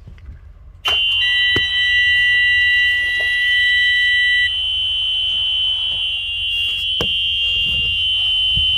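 Warning buzzer coming on as the ignition is switched on with the engine not yet running: a loud, steady, high-pitched electronic tone starts about a second in and holds, with a second, lower tone sounding alongside it until about halfway through.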